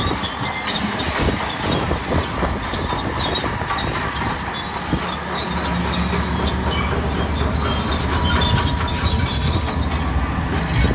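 Bulldozer working: a diesel engine running under a dense clatter and squeal of steel crawler tracks. The engine hum comes through more steadily in the second half.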